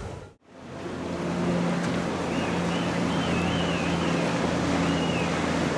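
Powerboat engines running steadily through the inlet, a low hum with water and wind noise on the microphone. The sound drops out briefly just after the start, and a faint wavering high whistle comes through in the middle.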